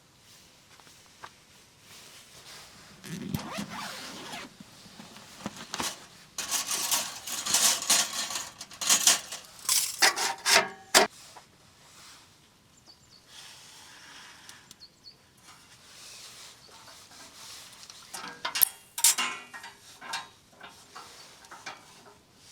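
Close-up handling noise: irregular bursts of rubbing and scraping, loudest in the middle and again near the end, with a sharp click about eleven seconds in.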